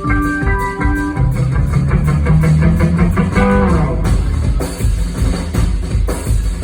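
Amplified electric guitar played live with a rock band: a few held melody notes, then a fast climbing run of notes about a second in, then dense playing over bass and drums.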